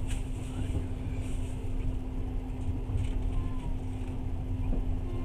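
Passenger train carriage running at speed: a steady low rumble of wheels on rails, with a steady hum and a few faint ticks.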